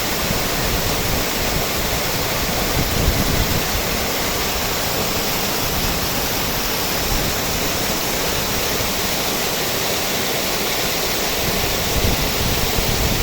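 The Guadalmedina river flowing: a steady, even rush of running water.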